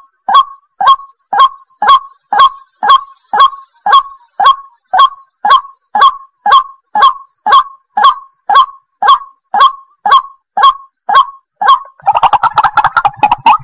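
White-breasted waterhen calling: a short, loud call repeated evenly about twice a second. Near the end it breaks into a rapid, stuttering run of notes.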